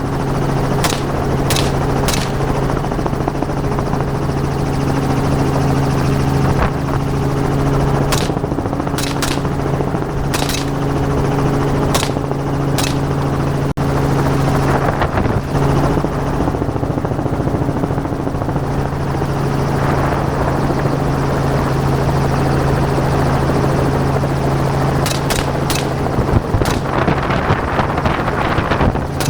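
Helicopter engine and rotor drone, steady throughout, with rifle shots fired from the aircraft in clusters: three in the first couple of seconds, about five between eight and thirteen seconds in, and a quick run of four or five near the end.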